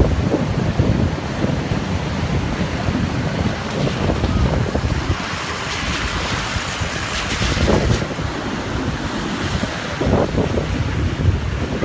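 Ocean surf with wind buffeting the microphone. A broad hiss of rushing water swells about halfway through and fades a couple of seconds later.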